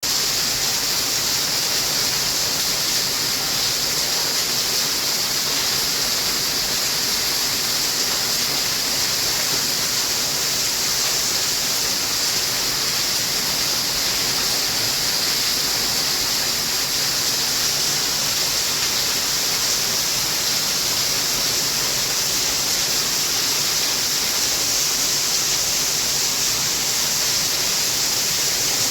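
Water pouring steadily over a small hydroelectric plant's overflow weir, a constant hiss-heavy rush of falling water.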